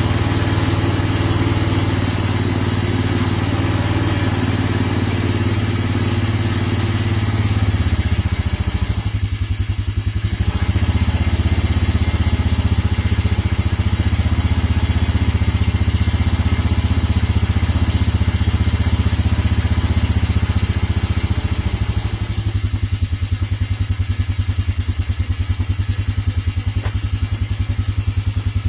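Vehicle engine idling just after a cold start, still very cold. Its note shifts about eight seconds in and the running grows a little quieter from about twenty-two seconds on.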